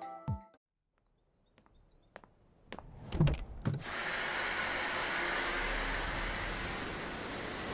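A few faint clicks, then about four seconds in a cordless vacuum cleaner's motor switches on and runs steadily, with a thin high-pitched whine over its airflow noise.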